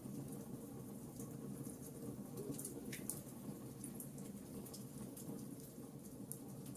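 Wood fire burning in a fireplace: a steady low rush of flames with irregular small crackles and pops from the burning logs, one sharper pop about three seconds in.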